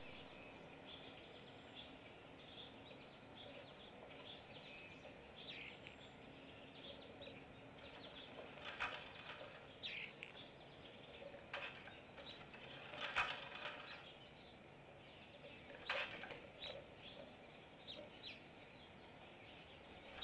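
Wild birds chirping and calling, a running chatter of short faint chirps with a few louder, sharper calls partway through.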